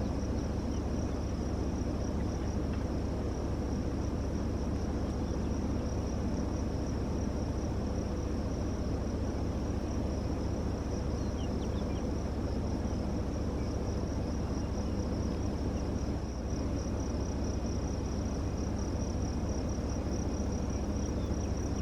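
Insects trilling steadily on one unbroken high pitch, over a low steady rumble.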